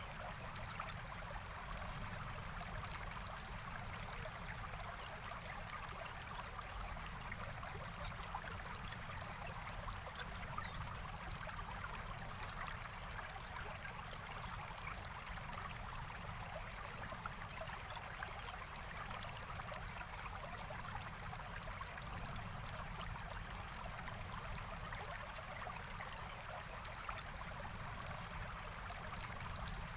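Forest stream flowing steadily, with a few faint bird chirps in the first third and light scattered campfire crackles.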